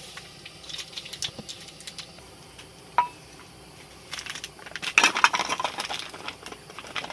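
Cooking utensils and dishes being handled: a single sharp clink that rings briefly about three seconds in, then a burst of rapid clattering and clinking for about a second and a half.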